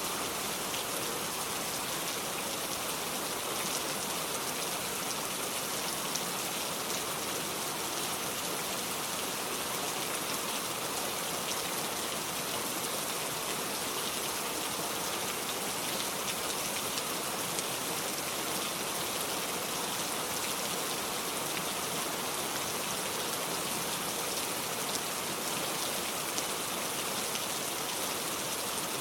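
Heavy rain falling steadily: a dense, even hiss with individual drops ticking through it and no thunder.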